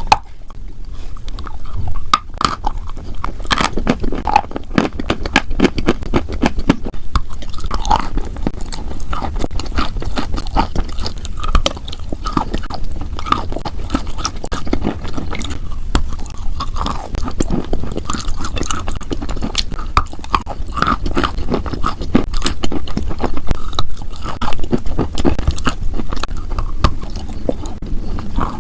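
Close-miked crunching and chewing of something hard and brittle, a dense run of crackles and bites with no pauses.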